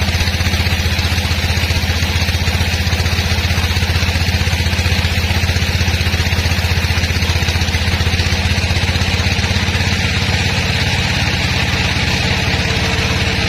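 Sawmill machinery's engine running steadily with a rapid, even pulse.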